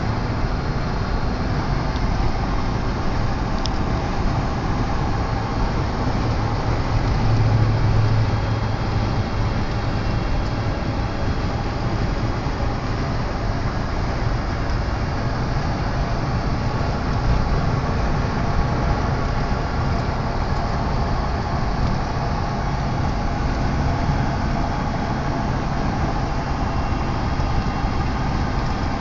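1988 Ford F-150 pickup cruising at highway speed: steady engine and road noise, swelling slightly about seven to nine seconds in.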